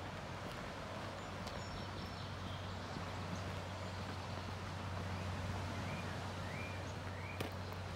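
A small bird calling several short rising chirps in the second half, over a steady low rumble, with a few footstep crunches on a dirt trail.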